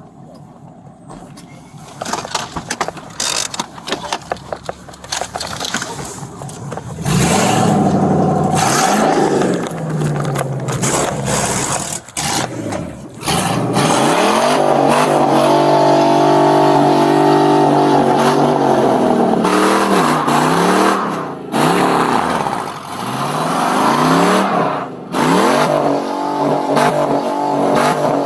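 Pickup truck engine revved hard at full throttle while its wheels spin in place, the truck blocked in and unable to move. The revs climb and fall several times, holding high for several seconds midway with a few brief drops.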